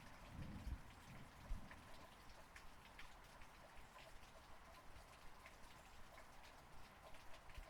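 Faint rain with individual drops ticking and splashing at irregular intervals. There are a few low thumps in the first two seconds.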